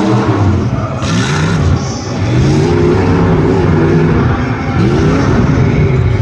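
Side-by-side off-road racing engines revving hard, the pitch climbing and dropping again and again as they accelerate and back off.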